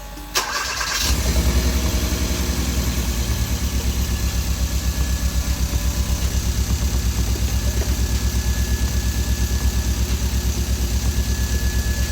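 2014 Hyundai Veloster Turbo's 1.6-litre turbocharged four-cylinder engine cranked and started, catching about a second in and then idling with an even pulse. It is being test-run after its injectors were cleaned, to check for a misfire, and at idle it sounds kind of okay.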